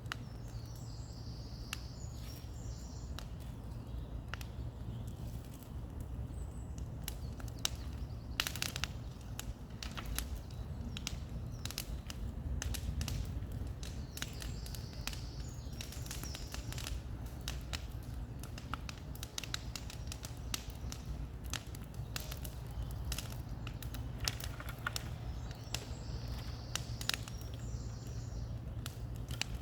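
Bonfire crackling and popping in irregular sharp snaps over a steady low rumble. A bird sings short phrases three times in the background.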